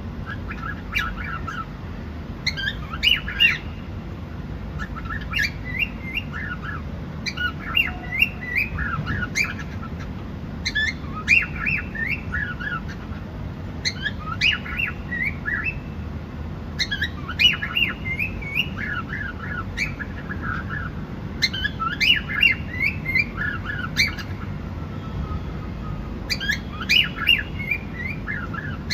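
Cockatiel chirping in short bursts of quick, falling chirps, one burst about every three seconds, over a steady low background rumble.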